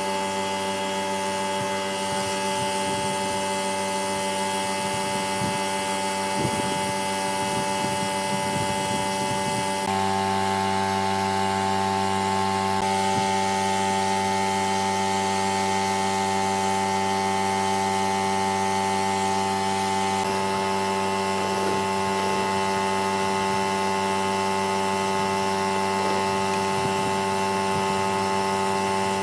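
A machine running steadily with a constant pitch, giving a continuous hum with a slight shift in tone about ten seconds in.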